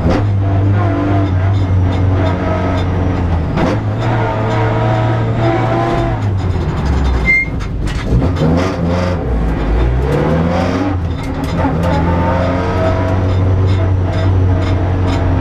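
Vauxhall Astra hill-climb car's engine at hard throttle, heard from inside the stripped, roll-caged cabin. The engine note holds high, dips and climbs again as the revs change with the gears. Between about six and eleven seconds in, the revs fall away and then sweep back up.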